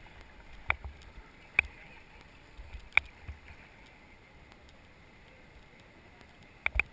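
Steady hiss of river water under a raft, with sharp knocks: three spaced about a second apart in the first three seconds, then two in quick succession near the end.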